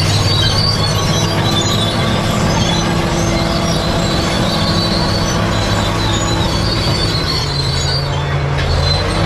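Bulldozer working: its diesel engine runs steadily under load, and its steel tracks squeal in high, shifting tones as they run. The engine note sags briefly near the end and then picks up again.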